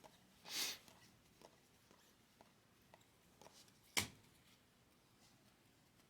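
Quiet handling of trading cards: a short swish about half a second in, a single sharp tap about four seconds in, and a few faint small clicks.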